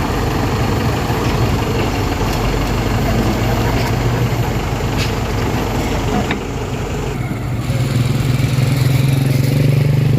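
Heavy-equipment diesel engine running steadily, its drone growing louder and stronger about eight seconds in, as if working under more load or coming closer.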